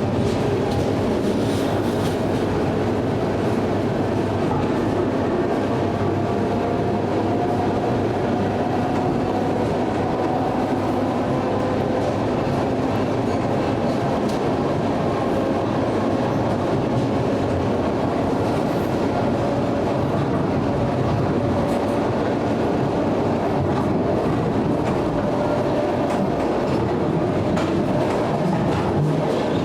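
ED9M electric train running along the line, a steady rumble of wheels on rails with a faint, slowly shifting motor whine.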